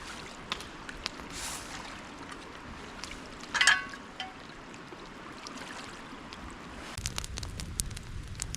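Seawater washing and trickling around the shoreline rocks, with scattered small clicks and one short, sharp scraping sound about three and a half seconds in. About a second before the end, a low rumble with denser crackling clicks sets in.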